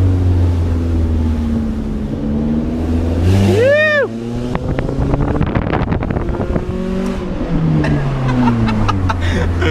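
Car engine with a loud aftermarket exhaust revving, then lifting off about four seconds in with a run of sharp crackles and pops from the exhaust as the revs fall, picking up again near the end. A brief rising-and-falling whoop just before the lift-off.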